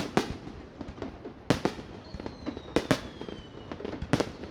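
Fireworks display: aerial shells bursting in sharp bangs, about six in four seconds, some in quick pairs, with crackling between them. A thin whistle falls slowly in pitch from about two seconds in.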